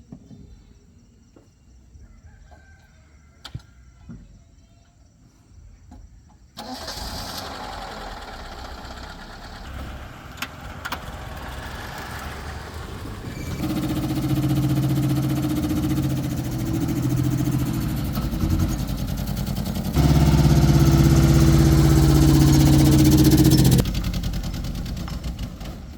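Freshly repaired car's engine starting and running: it comes in suddenly about six seconds in after a few faint clicks, settles into a steady running note, gets louder about twenty seconds in, then drops away near the end.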